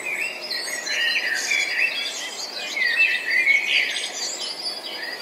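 Several birds chirping and singing, with short calls overlapping, and a rapid even trill starting about a second in and carrying on under the chirps.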